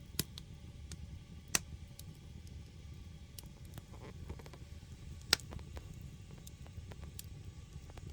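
Firewood burning in a traditional Korean agungi firebox: a steady low rumble from the fire, with scattered small crackles and three sharp pops, the loudest about a second and a half in and just past five seconds in.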